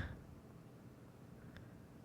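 Near silence: faint steady room hiss, with one small click about one and a half seconds in.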